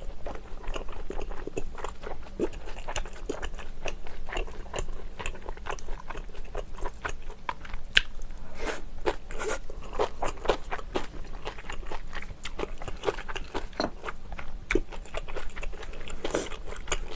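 Close-miked eating: chewing and crunching food, with many small wet mouth clicks and one sharper click about eight seconds in.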